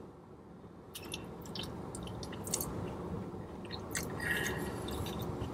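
A person chewing a bite of chicken from a burrito, with scattered soft mouth clicks starting about a second in.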